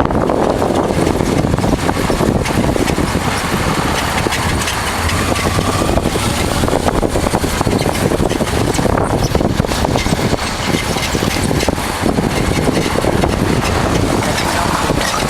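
1988 Honda Transalp's V-twin engine running steadily as the motorcycle rides along, under a dense, even rush of wind and road noise.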